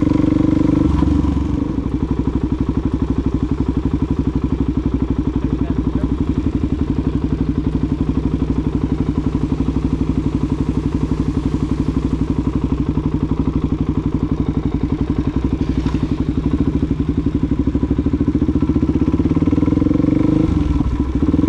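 Suzuki DR-Z400SM's single-cylinder four-stroke engine, heard from on the bike. It runs at higher revs for the first second or so, drops to a steady, evenly pulsing low-rev run for most of the stretch, and picks up revs again near the end.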